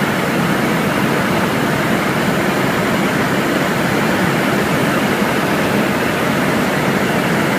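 Helicopter running steadily in flight, heard from inside the cabin as a loud, even rush of engine and rotor noise.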